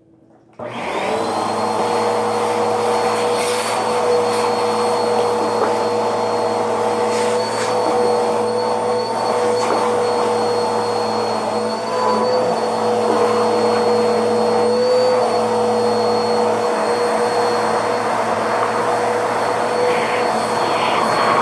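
Vacuum cleaner switched on about half a second in, then running steadily with a motor whine over a low hum, with a few brief crackles.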